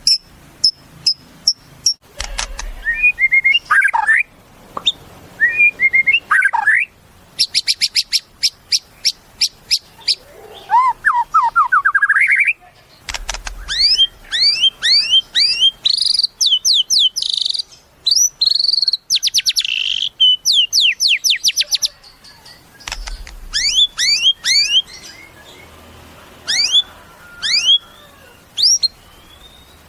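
White-rumped shama (murai batu) singing a loud, varied song. It is made of fast series of rising whistled notes, rapid high trills and short twittering phrases, with brief pauses between bouts.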